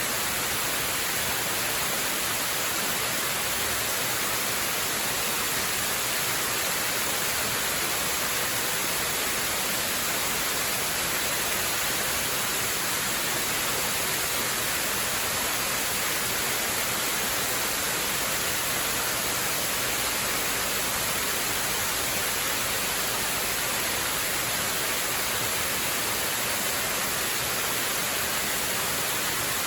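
Waterfall rushing in a steady, unbroken hiss, bright and even, with no change in level.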